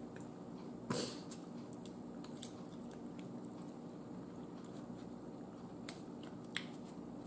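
Close-up mouth sounds of a person chewing a mouthful of mac and cheese, with a short sharp click about a second in and a couple of faint clicks near the end.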